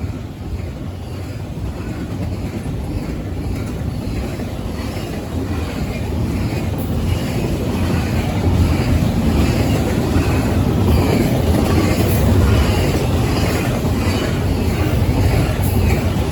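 CSX freight train passing at speed: a steady rumble of wheels on rail that grows louder through the first half and then holds, with a faint regular beat over it.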